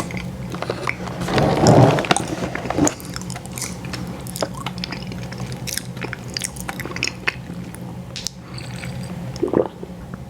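Close-miked biting and chewing of an ice cream sandwich: many small wet, sticky mouth clicks and squishes, with a louder bite about one and a half seconds in. A steady low hum runs underneath.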